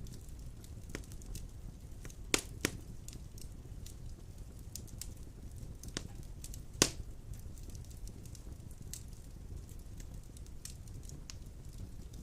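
Wood fire burning in a stone fireplace: a low steady rumble of flames with scattered crackles, and three sharper pops of burning wood, the loudest about seven seconds in.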